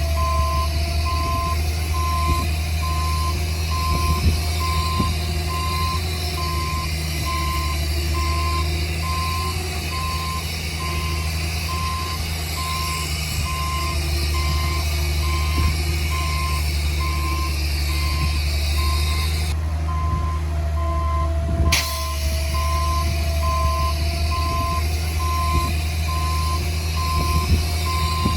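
Reversing alarm on a heavy earthmoving machine beeping steadily at an even pace, over the constant low drone of its diesel engine.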